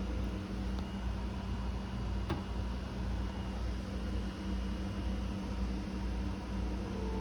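Steady low hum and hiss, with a faint click about two seconds in.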